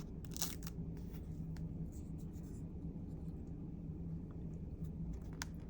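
A piece of paper being torn slowly by hand: scattered soft, scratchy crackles.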